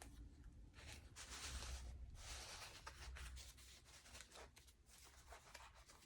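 Faint rustling of paper journal pages made from magazine sheets as they are handled and turned, with a few soft ticks over a low room hum.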